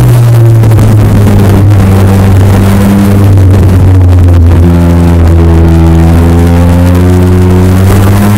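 Honda VFR1200F's V4 engine through an aftermarket DAM exhaust, heard on board while riding. It runs at a steady pull, then the revs climb slowly through the second half and the pitch drops near the end.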